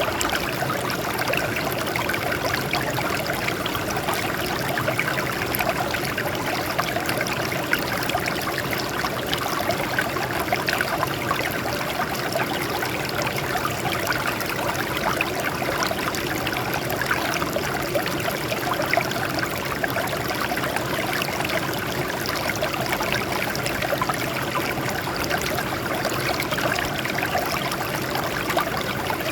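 Water streaming and trickling over rocks, a steady splashing and babbling.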